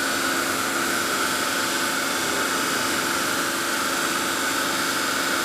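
Intermac CNC stone machine running, a steady whirring drone with a constant hum and no change in pitch or level.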